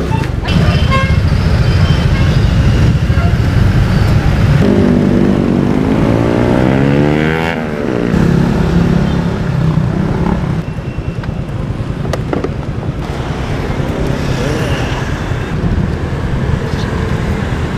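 Motorcycle riding in road traffic: steady engine and road rumble. About five to eight seconds in, an engine note rises and then falls in pitch.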